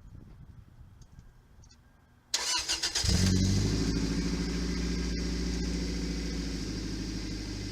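Toyota MR2 Spyder's 1ZZ 1.8-litre four-cylinder engine being started: the starter cranks briefly about two seconds in, the engine catches within half a second and settles into a steady idle that slowly quietens.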